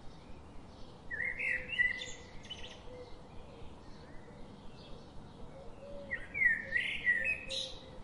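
A small bird singing two short, quick phrases of gliding, warbled notes, the second about four seconds after the first, over faint steady outdoor background noise.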